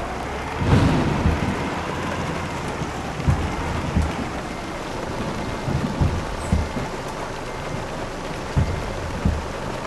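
Steady rushing road and wind noise inside a moving vehicle, broken by irregular low thumps, the strongest about a second in.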